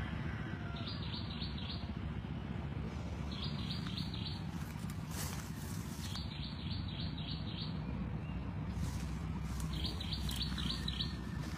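A bird calling in four short bursts of rapid, high chirps, over a steady low rumble.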